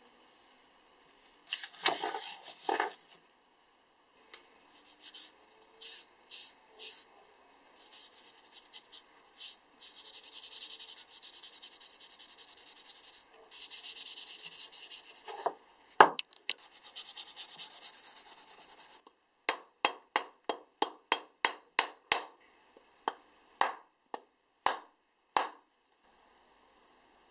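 Cloth rubbing over a stained wooden axe handle, buffing the finish: a few loud scrapes, then long stretches of steady brisk rubbing, ending in a quick run of short, evenly spaced strokes.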